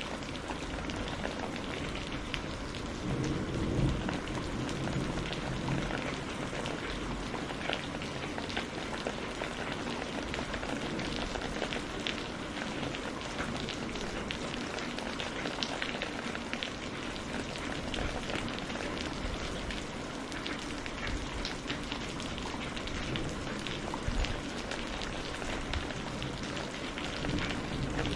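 Steady rainfall with many individual drops ticking on a surface, and a low rumble of thunder a few seconds in.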